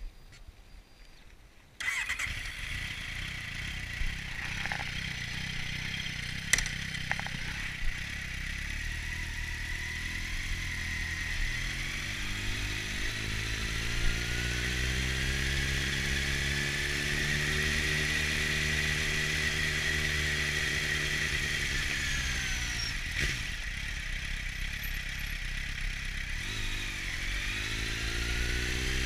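Kawasaki Z750's inline four-cylinder engine through a LeoVince aftermarket exhaust, heard up close from the rider's knee. The engine comes in suddenly about two seconds in, then its pitch climbs slowly and falls away, with brief dips near the end as the revs change.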